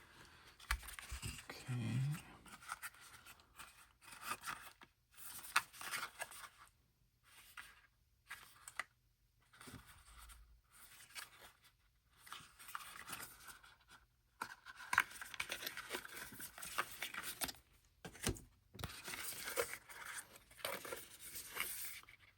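Packaging of a small album being torn open and handled by hand: irregular tearing and crinkling with sharp clicks, pausing for a few seconds in the middle.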